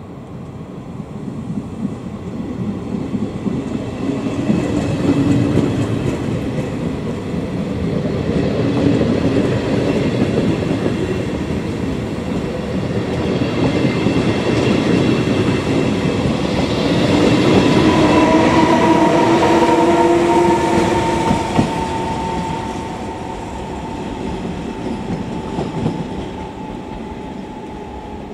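A train passing at close range, its wheels clattering over the rail joints. The sound builds over the first few seconds, peaks about two-thirds through with a whine that slowly falls in pitch, then eases off.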